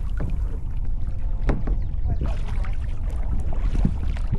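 Kayak paddle dipping and splashing in the water, a stroke every second or so, over a steady low rumble of wind on the microphone.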